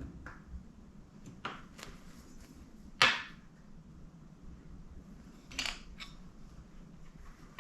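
A few sharp knocks and clicks of hard objects being handled, the loudest a single hard knock about three seconds in, with lighter clicks before it and a pair near six seconds.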